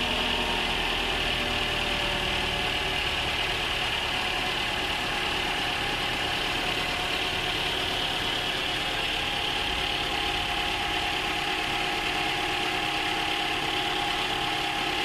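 High-mileage Toyota VVT-i petrol engine idling steadily, with its noise greatly reduced: an engine flush has cleared sludge from the top end under the rocker cover.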